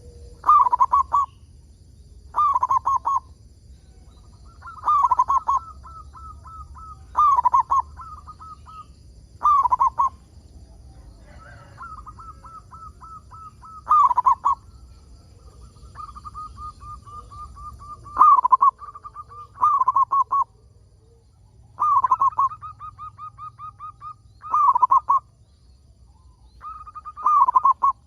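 Local zebra dove (perkutut) cooing. A soft rolling song phrase of quick stuttering coos repeats roughly every two to three seconds.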